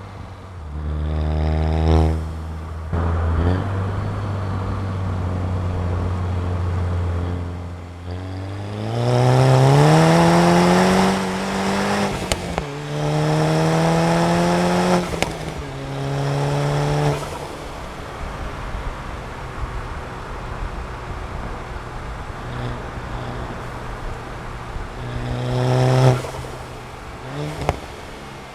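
Stage 2 tuned VW Golf MK6 GTI's turbocharged 2.0-litre four-cylinder under hard acceleration: revs climb through a gear, drop at a shift, and climb again. It then runs steadily for several seconds before one more rising pull near the end, which falls away sharply.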